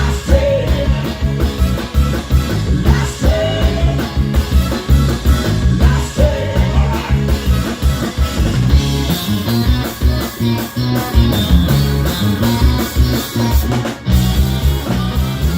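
Live blues band playing with a steady driving beat: guitar over bass and drums, no vocals.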